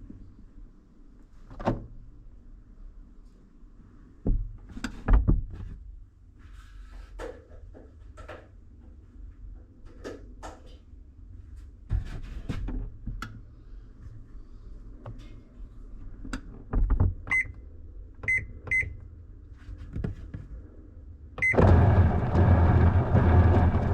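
Washing machine being started: scattered clicks and knocks, then a few short beeps from its control panel. Near the end another beep, and water starts rushing into the drum with a sudden loud, steady noise as the fill begins.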